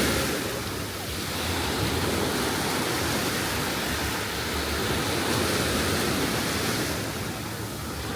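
Ocean surf washing onto a sandy beach: a steady rush of waves with slow swells in loudness.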